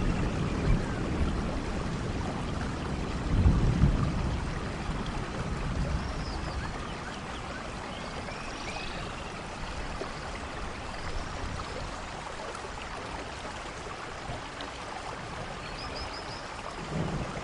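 Steady rainforest rain falling, with low rumbles of distant thunder about three and a half seconds in and again near the end. A few faint, short high chirps sound over the rain.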